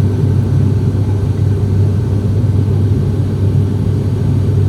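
Steady low cabin drone of a small passenger plane in flight, heard from inside the cabin: an even engine hum with rushing air noise over it.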